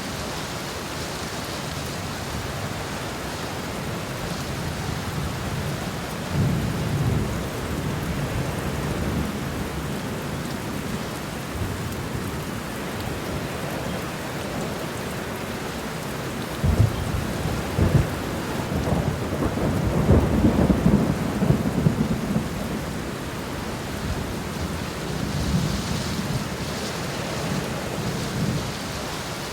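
Steady rain falling, with thunder rolling in the background: a low rumble swells a few times, loudest a little past the middle, with sharp low cracks.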